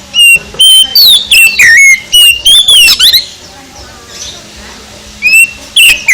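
Oriental magpie-robin (kacer) singing: a quick run of loud, whistled, warbling phrases, a pause of about two seconds, then the song picks up again near the end.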